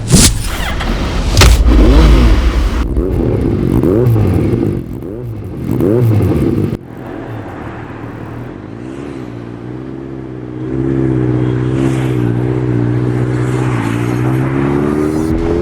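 Suzuki Hayabusa's 1300 cc inline-four engine: a loud burst in the first couple of seconds, then the throttle blipped about five times with the pitch rising and falling, then running at a steady note before the pitch climbs near the end as the bike pulls away.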